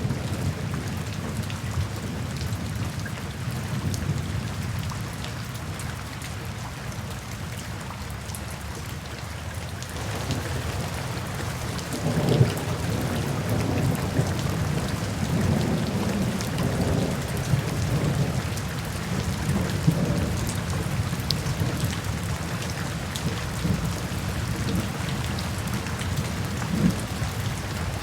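Steady rain falling, with low rolling thunder that grows louder and swells about halfway through.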